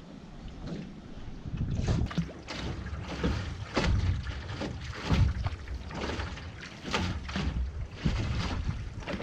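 Wind rumbling on the microphone of an action camera on a canoe, with water splashing in short, irregular bursts about once a second as the canoe is paddled.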